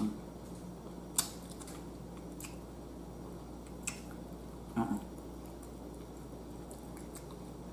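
A person chewing ribeye steak close to the microphone while working out a piece of gristle, with a few sharp clicks and a short low sound about five seconds in, over a steady low hum.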